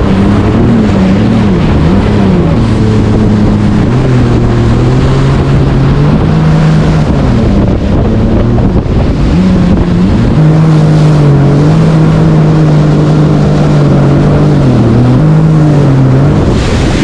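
Jet ski engine running under way, its pitch rising and falling with the throttle, settling higher about ten seconds in and dipping briefly near the end.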